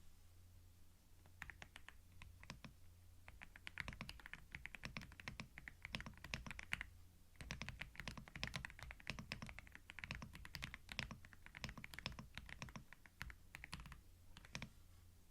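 Computer keyboard being typed on, the keystrokes coming in quick runs with short pauses, starting about a second in and thinning out near the end. A faint steady low hum lies underneath.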